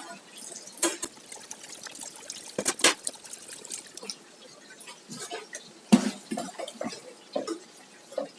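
Liquid being poured in a kitchen, mixed with a run of separate clicks and knocks; the sharpest knocks come about one, three and six seconds in.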